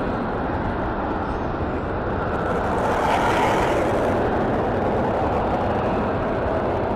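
Aircraft engine noise, steady and loud, with a hissing swell about three seconds in.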